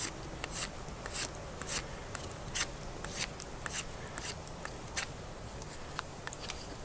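Knife blade shaving side twigs and bark off a young green stick, one quick scraping stroke about every half second, the strokes thinning out near the end.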